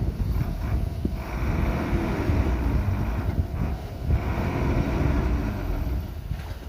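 Diesel engine of heavy earthmoving machinery running with a deep rumble, swelling louder twice as it works harder. Wind buffets the microphone.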